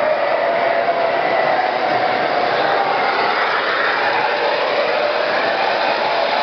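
MTH O-gauge model subway trains running on track: a steady whir of motors and wheels, with a faint whine that rises slightly in pitch.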